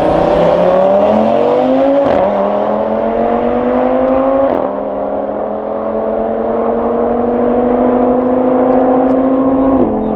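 Tuned Audi RS3's turbocharged five-cylinder engine at full throttle, its pitch climbing steadily through the gears. It upshifts three times: about two seconds in, about four and a half seconds in, and near the end. Each higher gear climbs more slowly as the car nears top speed.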